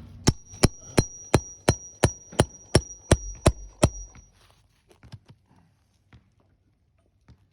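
A hand tool striking repeatedly on asphalt roof shingles as the roofer works a nail loose: about eleven sharp knocks, roughly three a second, with a high ring under them. The knocks stop about four seconds in, and a few faint clicks follow.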